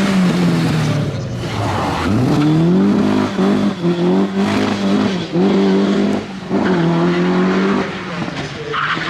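Rally car's engine held at high revs with short throttle lifts about once a second, tyres spinning, as when a car is doing donuts.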